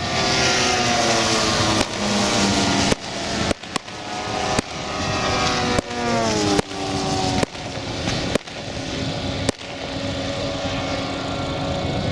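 Piston engines of large radio-controlled model warbirds running in flight. One passes about six seconds in, its pitch falling steeply. The sound breaks off abruptly several times.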